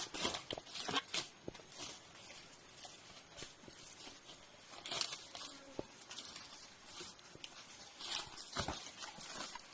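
Footsteps and rustling through forest undergrowth: irregular crackles and snaps of dry leaves and twigs, heaviest about a second in, around the middle and near the end.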